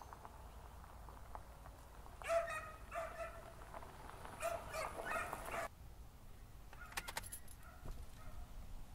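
An animal calling in two bursts of short, pitched cries, with a few fainter ones near the end.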